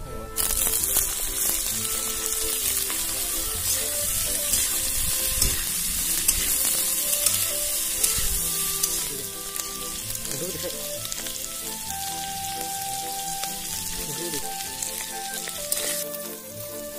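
Pork and onions frying in hot oil in a metal wok: a loud sizzle that starts suddenly about half a second in and eases a little past the halfway point, with a metal spatula stirring and scraping the pan.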